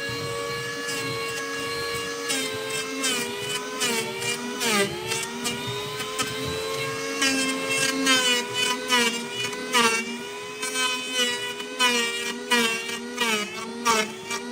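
Two-stroke chainsaw running at high revs and cutting into wood. Its pitch holds steady for about two seconds, then keeps dipping and climbing as the engine bogs under load and picks up again between cuts.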